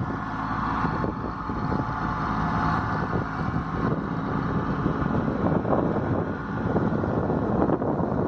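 Kubota B2441 compact tractor's three-cylinder diesel engine running steadily.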